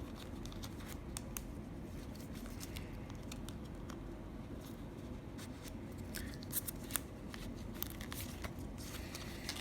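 Faint handling of playing cards and a plastic card wallet: scattered small clicks and crinkles as cards slide in and the plastic sleeves flex, with a couple of sharper clicks a little past halfway.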